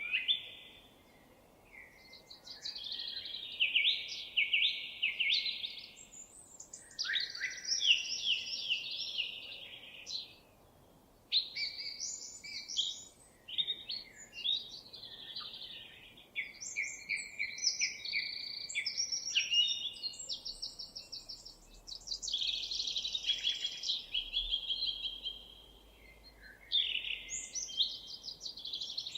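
Songbirds singing: rapid trilled and warbled phrases following one another closely, with brief pauses between them.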